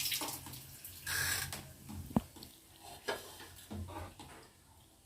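Liquid sounds from a pot of sotanghon soup, a few short splashing bursts that fade away, with one sharp knock about two seconds in.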